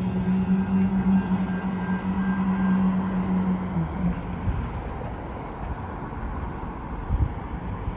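Los Angeles Metro light-rail train running at a station: a steady hum over rumbling noise that stops about four seconds in, leaving a fading rumble.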